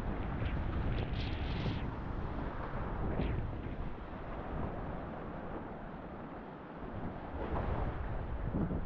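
Wind buffeting an action camera's microphone, a low rumbling noise with a few brief hisses in the first few seconds and a short lull about two-thirds of the way through.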